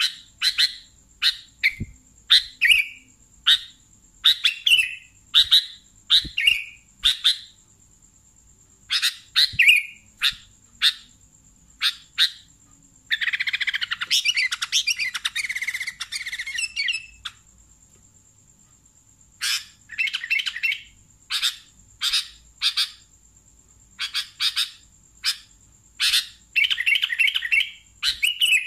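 Sooty-headed bulbul (kutilang) calling: a string of short, bright chirps about two a second, breaking about halfway into a rapid chattering run of a few seconds, then a short pause before the chirps resume.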